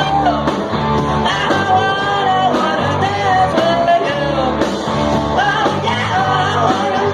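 Live garage-rock band playing a song, a singer's voice over guitar and a steady low bass line.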